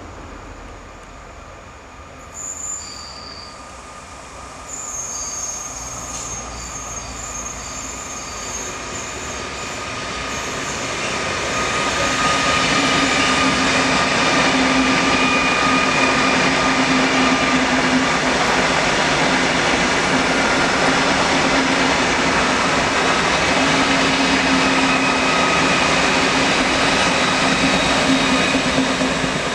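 PKP Intercity ED250 Pendolino high-speed electric train approaching and passing at speed. Thin high tones come and go while it is still distant. The train's noise builds and is loud from about twelve seconds in, a steady hum and whine over the wheel and air noise as the long train goes by.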